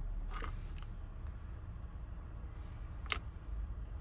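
Small lock parts being handled: a faint rattle about half a second in and a single sharp click near three seconds, as a wafer is taken out of a Honda door lock cylinder and checked. A low steady hum runs under it.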